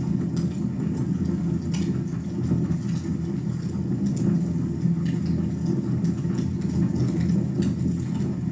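Wood fire burning in a fireplace: a steady low rumble with a few sharp crackles.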